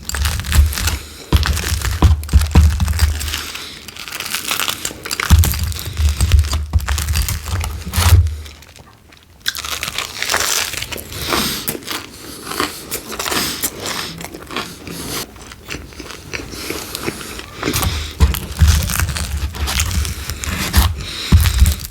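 Close-miked eating: pizza being bitten and chewed, crunchy crust crackling with wet chewing and low thumps, with a short pause about nine seconds in.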